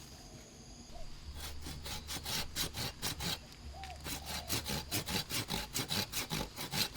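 Bamboo being cut with a hand saw in quick, even back-and-forth strokes, about five a second, starting about a second in.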